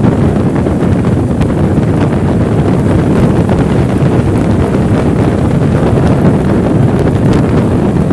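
Loud, steady wind buffeting the microphone, a continuous low rumble.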